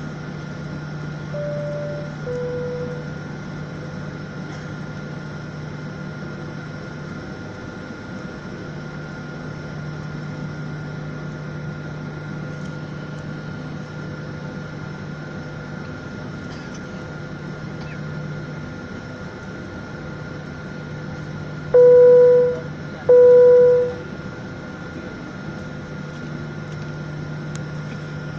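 Steady drone of an airliner cabin, with a soft two-note high-low chime about a second and a half in. Near the end come two loud single beeps about a second apart, each the same pitch.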